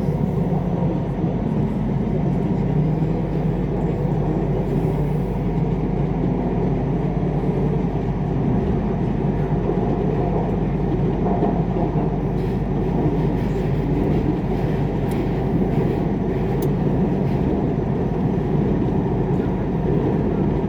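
Siemens Inspiro MRT train running steadily between stations, heard from inside the carriage as a continuous low rumble.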